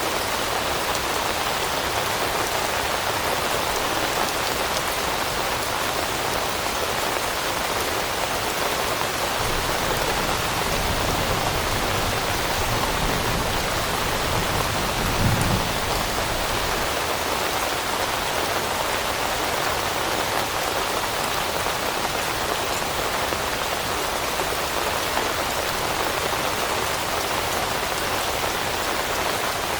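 Steady rain falling on leaves, an even hiss of drops. A low rumble swells through the middle and peaks briefly about halfway through.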